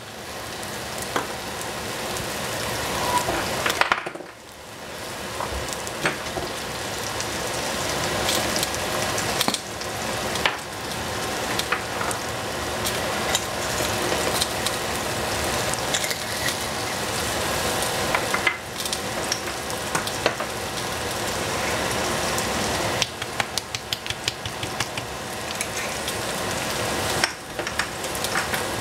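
Sliced eggplant and zucchini frying in oil in a stainless steel pot: a steady sizzle full of small crackles and pops, dipping briefly a few times.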